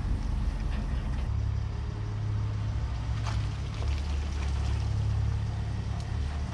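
An engine idling with a steady low drone, with a couple of faint clicks.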